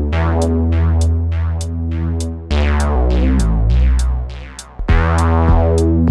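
An electronic synthesizer patch played through the Swenigiser Proto VCF/A Eurorack filter, driven hot for a gritty tone, over a drum machine whose hi-hats tick about three times a second. The sustained bass chords brighten and then darken twice as the filter sweeps closed. Near the end the bass briefly drops out before a run of punchy hits.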